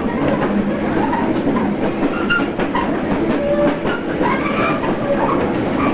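JR East 113 series electric train running, heard from on board: a steady rumble of wheels and running gear, with a few clicks over rail joints.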